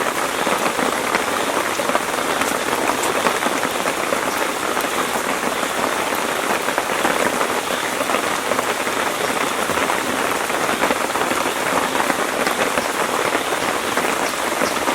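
Steady rain falling, a dense, even wash of many small drop hits.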